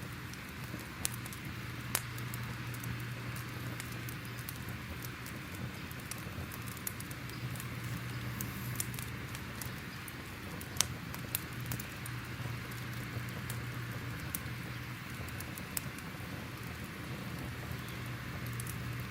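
Crackling fire: a steady hiss with irregular sharp pops and snaps, a few of them louder, over a low steady hum.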